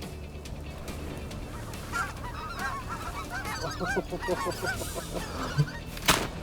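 A flock of snow geese calling, many overlapping short honks that build up about two seconds in and thin out toward the end, followed by two loud sudden bangs at the very end.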